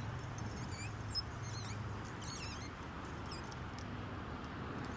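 Small birds chirping in short, high, quick twittering phrases, most of them in the first half, over a faint low steady hum.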